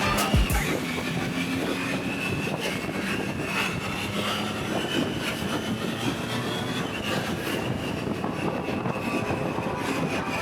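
Motorcycle on the move: engine running at a steady road speed under a continuous rush of wind noise, with a faint whine that drifts slowly in pitch.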